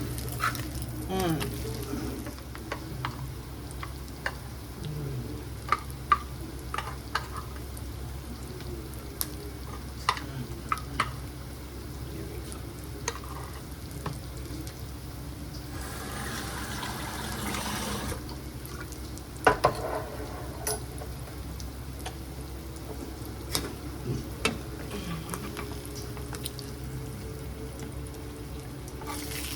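Food sizzling in a frying pan, with scattered clicks and clatter of utensils. A short stretch of steady hiss comes about halfway through, followed shortly by a sharp knock.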